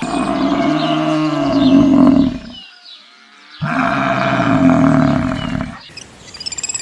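A large animal calling twice, each call long and loud, with a near-silent pause of about a second between them.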